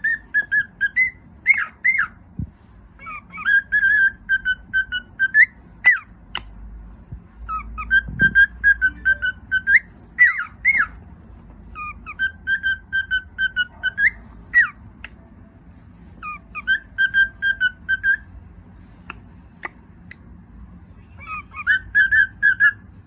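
Cockatiel singing its whistled song: about six bouts of repeated short notes at one pitch, broken by quick sweeping chirps, each bout lasting a few seconds with short pauses between.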